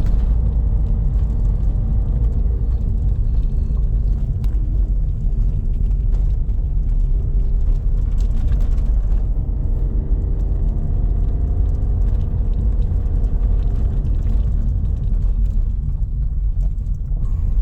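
Car climbing a very steep ramp under load: a steady low rumble of engine and road noise, with a faint engine hum that shifts gently in pitch.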